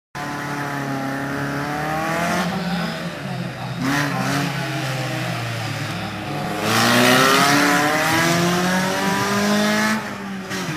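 SEAT Cordoba SX rally car's engine revving hard through the gears, its pitch climbing and then dipping sharply twice in the first half as the driver shifts or lifts. The loudest stretch, in the second half, adds a hiss of tyres sliding on the dusty surface before the sound drops off near the end.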